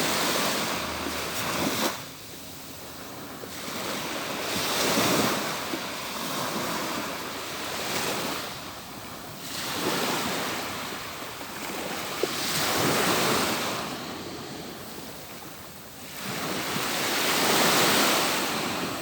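Atlantic Ocean surf: waves breaking and washing up the beach, swelling and fading in a slow rhythm of a surge about every four seconds.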